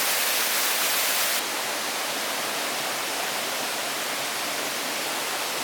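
Steady, even rushing hiss like rain or running water, with no distinct events; it drops abruptly to a slightly quieter, duller level about a second and a half in.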